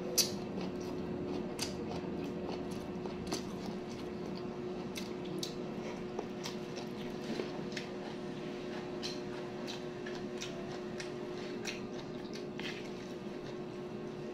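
Close-up chewing and wet mouth sounds of a person eating rice and cooked cabbage by hand, with many small irregular clicks and smacks. A steady faint hum runs underneath.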